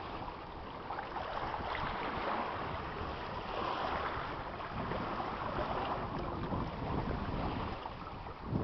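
Steady rushing noise of wind buffeting the microphone, swelling and easing without a break.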